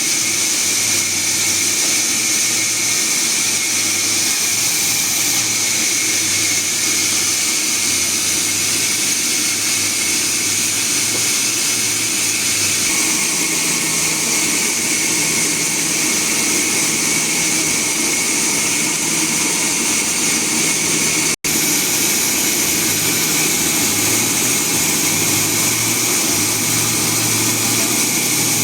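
Sawmill machinery running steadily, with a loud high hiss over a low motor hum that shifts in pitch now and then; the sound cuts out for an instant about two-thirds of the way through.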